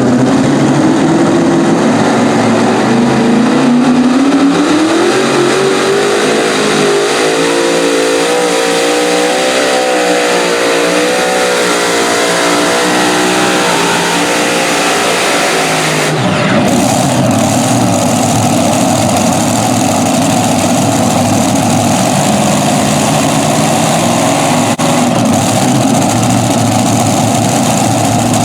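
Super modified pulling tractor engines revving up and running at full throttle under load, the pitch climbing over the first few seconds and then wavering at high revs. About 16 seconds in the sound breaks off abruptly into a steadier, lower engine note.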